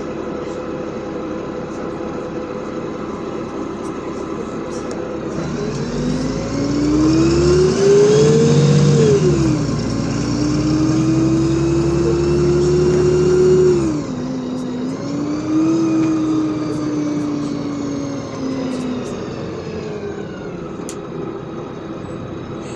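LiAZ 5292.65 city bus heard from inside the cabin, picking up speed. About five seconds in, the engine note rises, drops once at a gear change and climbs again for several seconds, then eases off and falls away.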